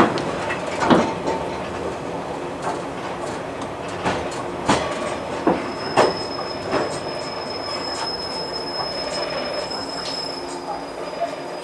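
JR 115 series electric train heard from on board, wheels clacking and knocking over rail joints and points over a steady rumble. About halfway through a thin, steady high-pitched squeal sets in and holds for several seconds as the knocks thin out and the train slows.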